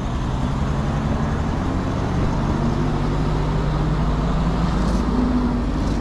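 Heavy tow truck's engine running steadily, a constant low hum.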